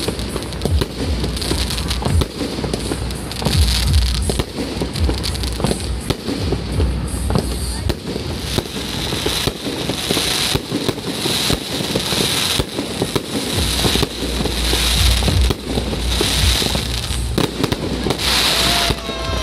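Aerial fireworks shells bursting in quick succession, with dense crackling and low booms.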